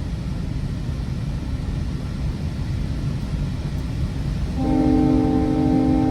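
GO Transit commuter train running along the track with a steady rumble. About four and a half seconds in, the leading cab car's multi-tone horn sounds one blast of about two seconds.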